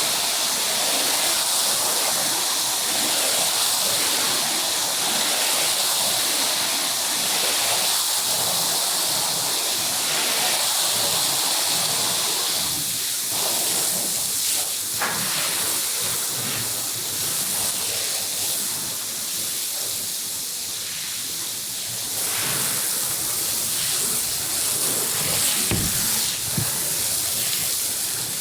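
Water spraying hard onto a carpet during rinsing: a steady rushing hiss that rises and falls a little, with a brief dip around the middle.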